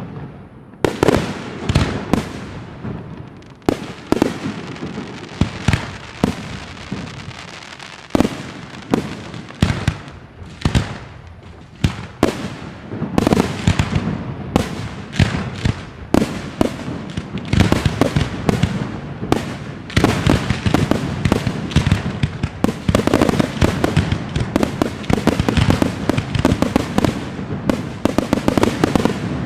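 Aerial firework shells bursting in quick succession, a steady run of sharp bangs with rumbling echoes between them. The bangs come thicker and louder in the second half.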